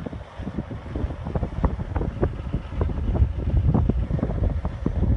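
Wind buffeting the microphone outdoors: a heavy low rumble with irregular gusty pops.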